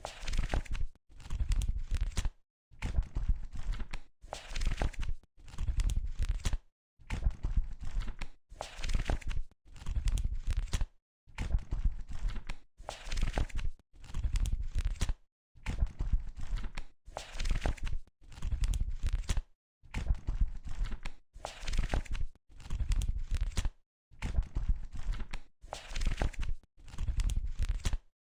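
Paper book pages being flipped, in repeated bursts of rustling and quick page flutters about every two seconds, with short silent gaps between them.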